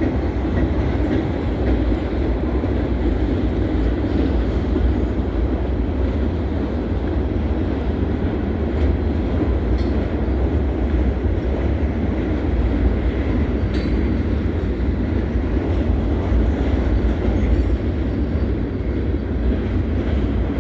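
CSX freight train rolling past: a steady, loud rumble of wheels and cars that holds even throughout.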